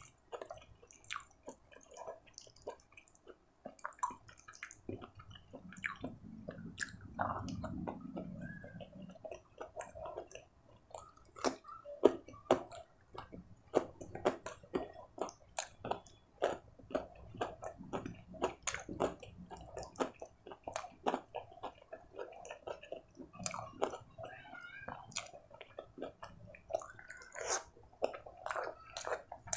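Close-miked wet chewing and mouth sounds of a person eating rice with paneer masala and corn palak by hand: a dense, irregular run of smacks and clicks.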